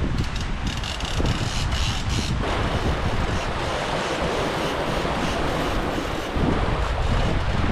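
Wind buffeting the microphone over the rush of open-sea waves and water, the water rush swelling about two and a half seconds in.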